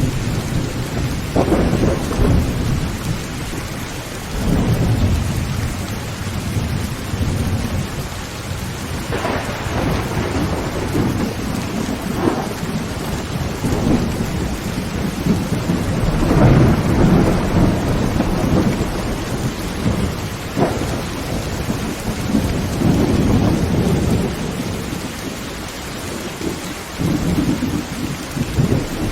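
Heavy rain drumming steadily on a tin tent roof, with thunder rumbling again and again and several sharper cracks of thunder breaking through.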